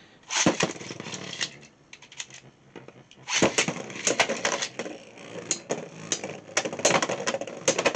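Beyblade X spinning tops clattering in a plastic stadium: a sharp burst of clicks and knocks about half a second in, then a lull, then dense rapid clicking and knocking of tops colliding and grinding from about three and a half seconds in.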